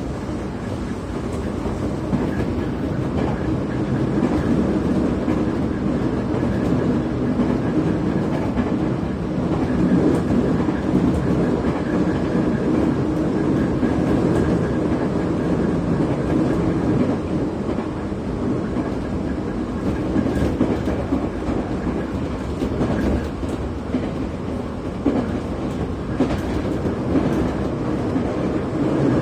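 Running noise inside a moving JR Kyushu 811 series electric train car: a steady rumble of wheels and running gear on the rails, with a few light clicks scattered through it.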